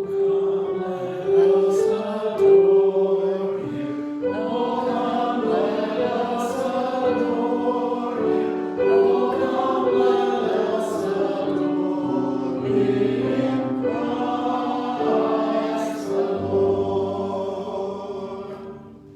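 Church choir singing a hymn, with sustained notes and chords that fade out shortly before the end.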